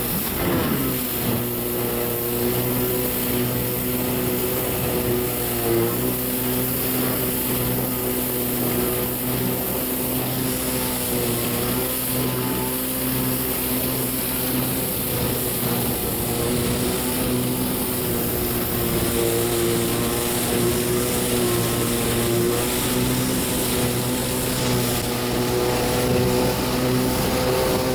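1993 Kawasaki 650SX stand-up jet ski's two-stroke twin engine running under way, with a constant hiss over it. Its pitch drops steeply about a second in, then holds fairly steady with a few brief dips.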